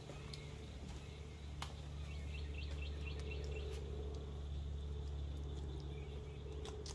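Birds chirping in quick runs of short calls over a steady low hum, with a few faint clicks.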